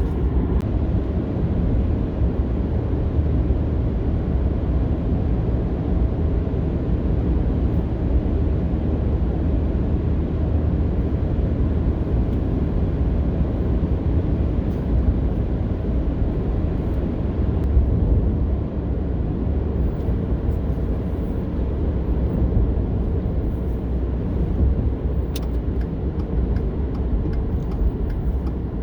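Steady low rumble of road noise inside a moving vehicle, even throughout, with a few faint ticks near the end.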